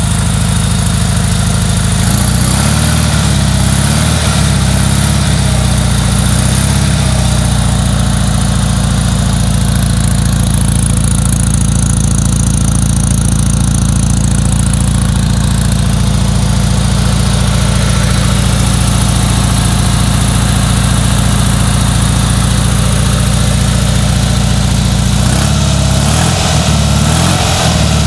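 Fiat 500R's air-cooled two-cylinder engine, fitted with a 28 mm carburettor and an Alquati sport exhaust, idling steadily at an even pitch.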